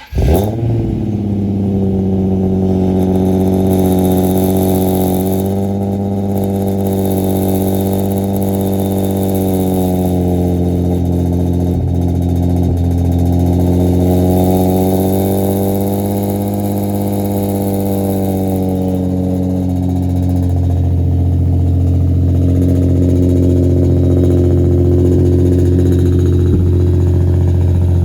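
Nissan 350Z's 3.5-litre V6 starting through a decatted Invidia Gemini exhaust: it catches straight away and holds a raised idle that wavers slightly in pitch. About twenty seconds in it settles to a lower, deeper idle.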